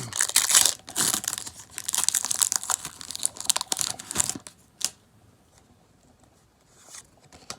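Foil wrapper of a Pokémon trading-card booster pack being torn open and crinkled for about four and a half seconds, followed by a single sharp tap about five seconds in.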